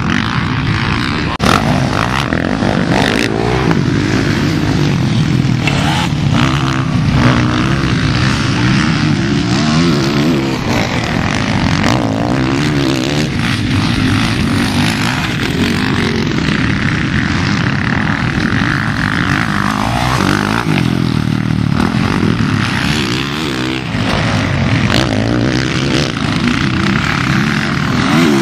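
Several motocross bikes racing at once, their engines revving up and down with overlapping rising and falling notes.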